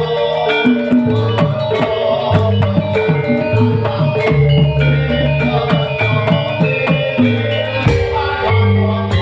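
Live band music: a regular drum beat over a bass line and held melodic notes.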